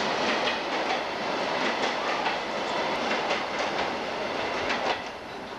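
Empty freight boxcars rolling past at close range, their wheels clacking and knocking over the rail joints with a continuous rumble; the sound drops somewhat about five seconds in.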